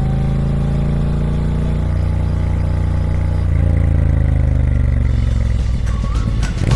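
Triumph Speed Twin 1200's 1200cc parallel-twin engine running steadily through its stock exhaust, its pitch drifting gently. Near the end, music comes in over it.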